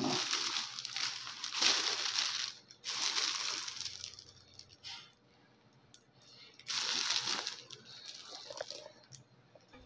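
Clear plastic packaging bags crinkling as they are handled, in several bursts with pauses between.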